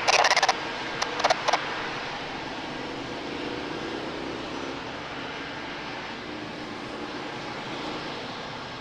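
Jet airliner engines heard from afar, a steady rush with a faint low hum that slowly fades.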